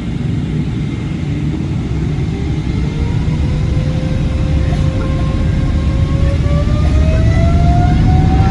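Airliner jet engines spooling up for takeoff: a heavy low rumble that grows louder, with a whine that rises steadily in pitch from about three seconds in.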